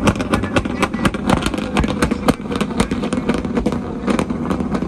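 A vehicle engine running, with a dense, irregular crackle of sharp pops over a steady low rumble.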